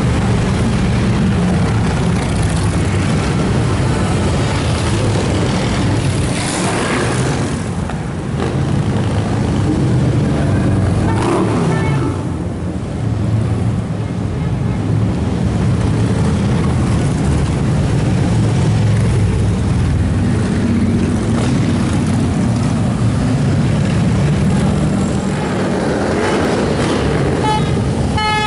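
A large pack of motorcycles riding past in a steady, continuous low rumble of many engines, with a horn honking in several short blasts near the end.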